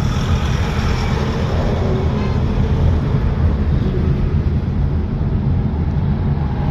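Car driving along: steady engine and road rumble heard from inside the cabin.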